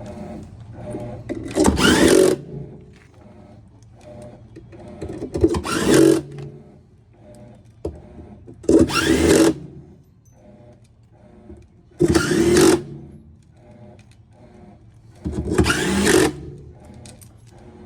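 Cordless drill/driver running 10 mm bolts into the washer, five short bursts a few seconds apart. In each burst the motor whines up in pitch.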